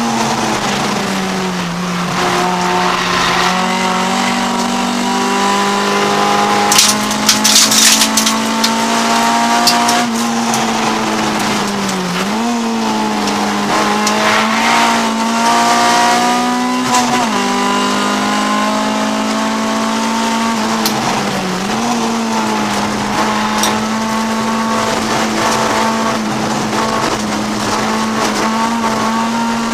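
Honda CRX race car's B20 VTEC four-cylinder engine heard from inside the cabin while racing. It holds a steady note with brief dips and recoveries in revs three times in the second half, and a short burst of harsh noise comes about seven seconds in.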